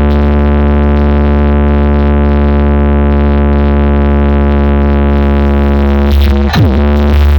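DJ speaker-box setup playing a loud, bass-heavy synthesizer drone at full volume for a sound test, with a swooping pitch sweep about six and a half seconds in.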